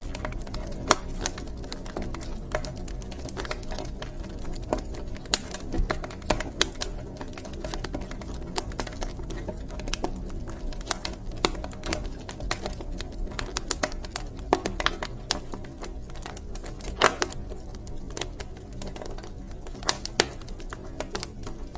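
Wood fire crackling in a fireplace: irregular sharp pops and snaps, a few louder ones scattered through, over a steady low rumble of burning.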